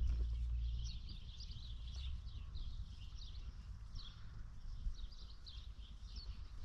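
Birds chirping, many short, quick calls one after another, with a low rumble that fades out about a second in.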